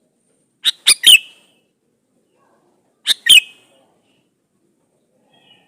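Male sooty-headed bulbul (kutilang) calling: two short, bright phrases of a few quick notes each, about two seconds apart.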